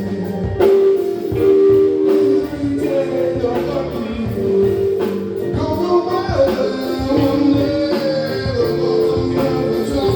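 Live band music with singing, guitar and drums, played at a steady beat.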